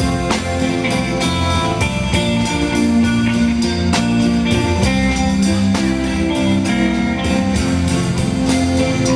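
Live band playing an instrumental guitar passage: guitars over a moving bass line with a steady beat, no singing.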